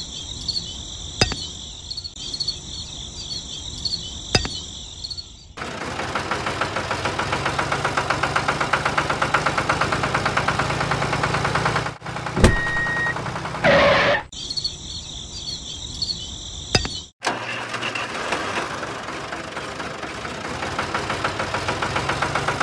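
Crickets chirping with a couple of light clicks, then a small tractor engine chugging in a rapid, even beat from about six seconds in. The chugging breaks off for a few seconds, when the crickets come back, and starts again near the end.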